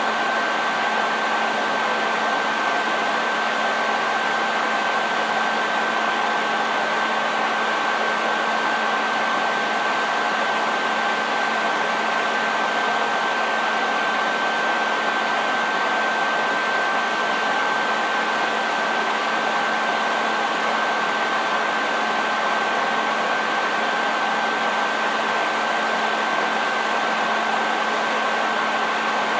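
Handheld hair dryer running steadily: an even rush of blown air with a low motor hum and a thin, high steady whine on top.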